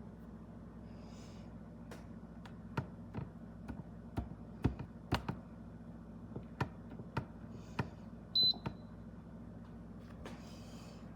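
A run of clicks and taps on a digital rice cooker, followed by a single short high beep from the cooker about eight seconds in.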